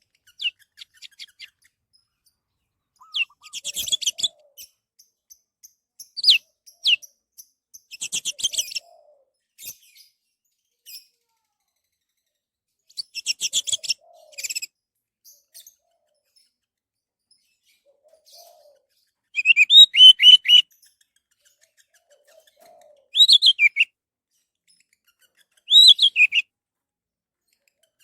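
Orange-headed thrush (anis merah) singing: a string of varied phrases, each a second or two long, of rapid chattering notes and clear slurred whistles, with short pauses between them.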